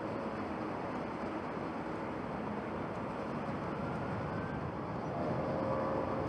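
Steady rushing roar of a jet airliner's engines heard from a distance, with a faint whine over it; it grows slightly louder near the end.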